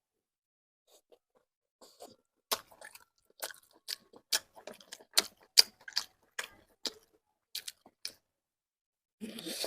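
A person chewing food close to the microphone, with sharp crunchy clicks coming about twice a second after a quiet first couple of seconds. A short, denser rustle of noise comes near the end.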